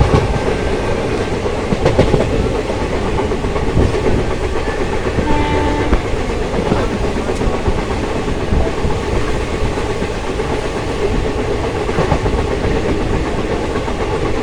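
Moving passenger train heard from on board: a steady rumble with wheels clattering over rail joints, a knock every couple of seconds in the first part. A brief pitched tone sounds about five to six seconds in.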